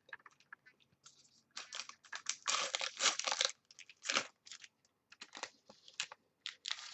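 Crinkling and rustling of plastic card packaging and cards being handled, in short irregular bursts. The busiest stretch runs from about one and a half to three and a half seconds in.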